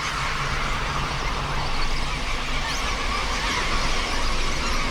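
Dense chorus of many birds calling at once, the overlapping wavering calls of a crowded colony, over a low hum.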